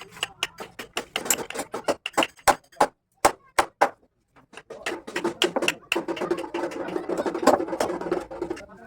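A run of sharp, irregular knocks and clicks, several a second, breaking off for about a second midway.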